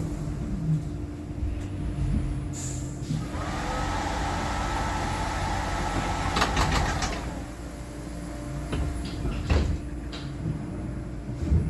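Air hissing for about four seconds as the doors of a Scania-Eletra electric bus work, ending in a few sharp clicks. A steady low hum runs underneath.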